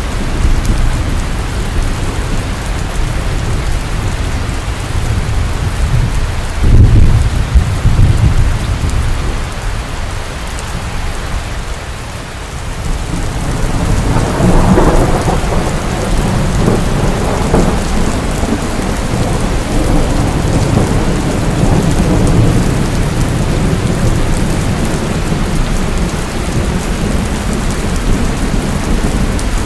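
Steady rain during a thunderstorm. A short, loud rumble of thunder comes about a quarter of the way in, and a longer rumble builds just before halfway and carries on under the rain.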